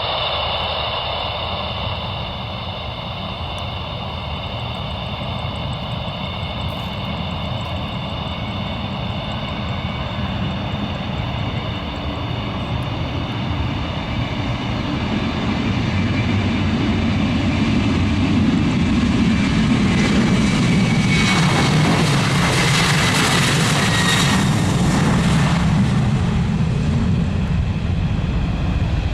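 Jet aircraft engines running with a steady high whine over a broad rushing noise, growing louder in the second half.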